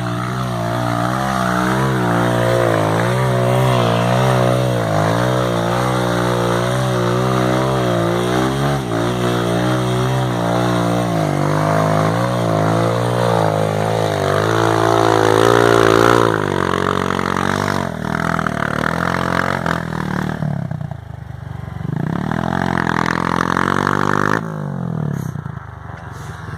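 Dirt bike engine revving under load on a steep muddy climb, its pitch rising and falling with the throttle. About sixteen seconds in it drops back, then revs up again and cuts off shortly before the end.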